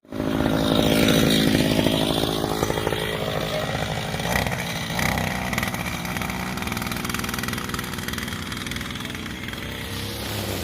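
Husqvarna 541RB two-stroke brushcutter running at high revs with nylon trimmer line fitted, cutting grass. It comes in suddenly, is loudest in the first couple of seconds, then runs steadily at a slightly lower level.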